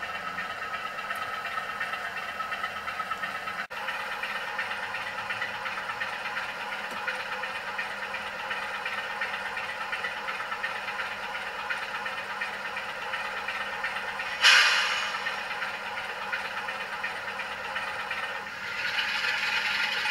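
OO gauge model diesel locomotive running with its DCC sound decoder, a steady diesel engine note through a small speaker mixed with wheel and track clatter. A sudden loud burst comes about fourteen seconds in and fades away over a couple of seconds.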